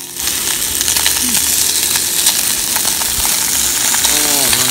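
Food frying and sizzling hard in a cast-iron pot on a cassette gas stove, the sizzle jumping louder just after the start, with a spatula clinking and scraping against the iron. A few short squeaks near the end as vegetables are tipped in from a plastic bag.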